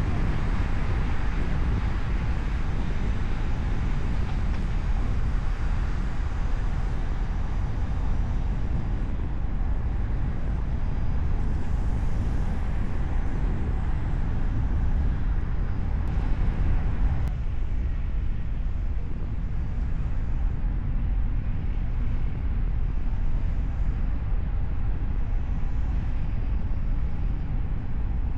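A car driving at speed: steady low road and engine rumble with tyre hiss. About two-thirds of the way through, the hiss in the middle range drops away suddenly while the low rumble carries on.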